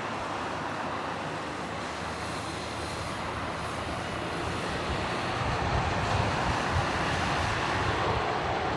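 Jet engines of an approaching Airbus A321-200 airliner, a steady rumbling hiss that grows louder about halfway through as the aircraft comes closer on final approach.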